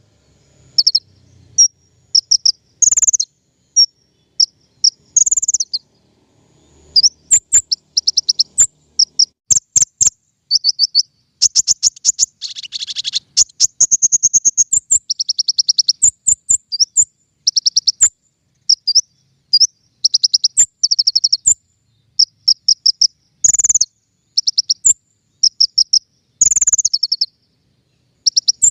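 King konin birdsong used as a lure and training call: short phrases of rapid, high-pitched chirps and trills, repeated over and over with brief pauses between them, with a buzzier run of trilling about halfway through.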